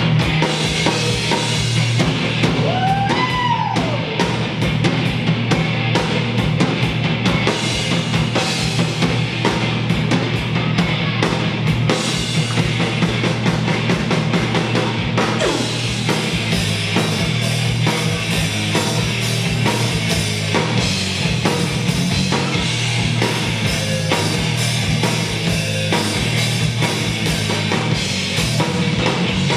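Live rock band playing heavy rock, with a drum kit hitting steadily and guitars.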